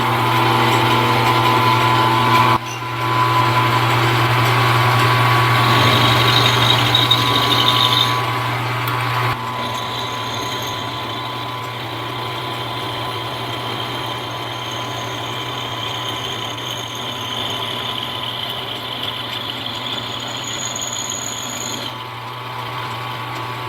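Milling machine running with its cutter taking a cut along the edge of a small metal plate: a steady motor hum under a rougher cutting noise, loudest in the first several seconds, then running more quietly.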